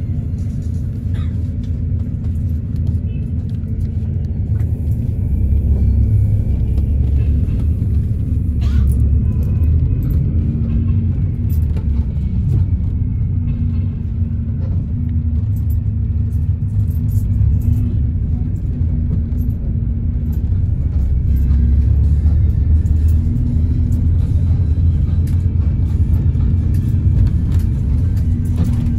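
Steady low rumble of a bus's engine and road noise heard from inside the moving cabin, swelling slightly now and then, with music faintly in the background.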